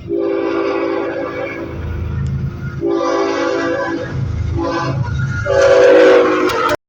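Norfolk Southern locomotive's multi-chime air horn blowing the grade-crossing signal: two long blasts, a short one, then a final long and loudest blast, over the low rumble of the approaching stack train. The sound cuts off suddenly near the end.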